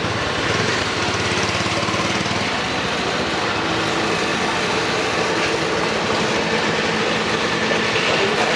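Motorcycle engine running steadily under way, with a constant rushing noise over it.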